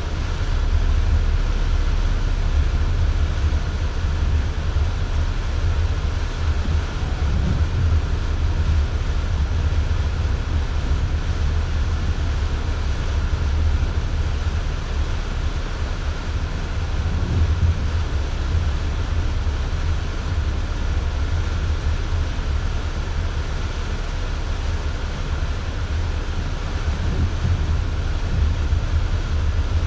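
Steady in-cabin drone of a 4x4 driving along at speed, with road and wind noise from the blizzard outside; a deep low rumble dominates throughout.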